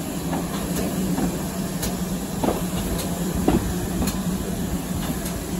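Railway carriage running slowly along the track, heard from on board: a steady rumble and hum with scattered clicks and knocks from the wheels over rail joints.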